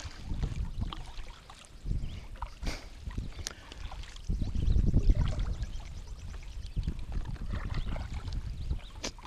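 Water lapping and gurgling against a kayak hull on a choppy lake, with wind gusting over the microphone, the strongest gust about halfway through. A few faint clicks.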